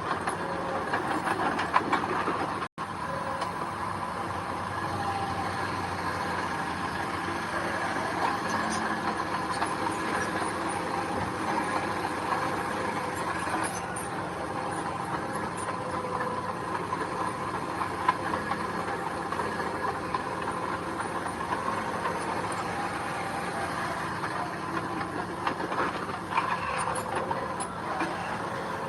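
Diesel engine of heavy road-work machinery running steadily, with a brief cut-out in the sound about three seconds in.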